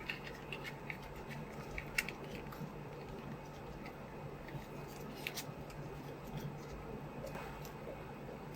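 Small, sharp clicks and taps of plastic parts of a figma action figure being handled, grouped in the first couple of seconds and again around the middle, the loudest about two seconds in, over a steady low hum.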